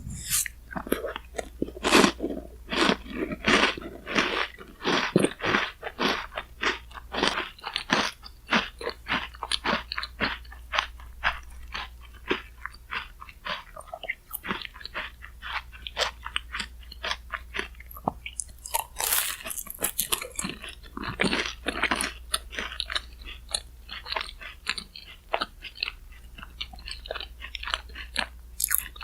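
Close-miked chewing and crunching of Chic Choc cookie shaved-ice bingsu, in a steady run of sharp crunches a couple or more a second. The crunching grows denser for a few seconds about two-thirds of the way through.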